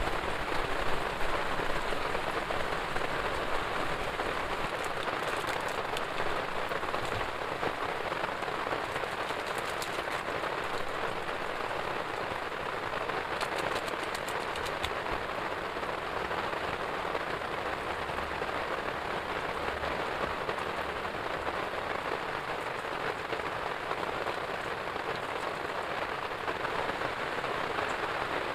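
Heavy rain falling steadily, a constant hiss of downpour with clusters of sharper drop ticks a few times.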